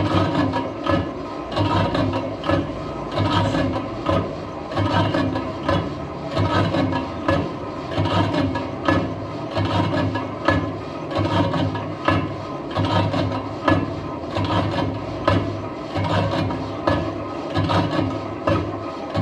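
Lathe turning a steel truck wheel rim: the cutting tool scraping the metal as the rim spins over the steady hum of the machine, swelling in a regular pulse a little more than once a second.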